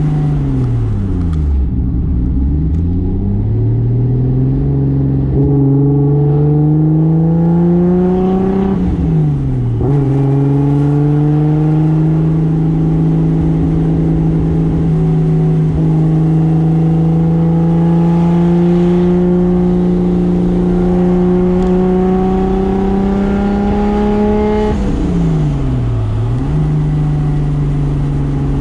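Single-turbo Toyota 2JZ straight-six engine driving hard. The revs fall, then climb until a brief dip at a gearchange about nine seconds in. They then hold almost level, creeping up for about fifteen seconds, before dropping again near the end and climbing once more.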